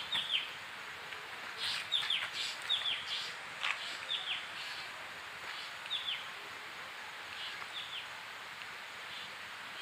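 A bird calling with short, high notes that each slide downward, repeated every second or so with gaps, over a steady hiss of outdoor background noise.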